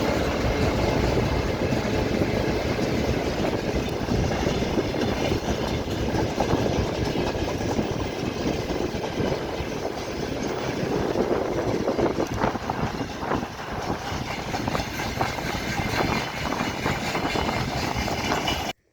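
A train passing close by, a continuous rumble and rattle of its cars on the rails, which cuts off suddenly near the end.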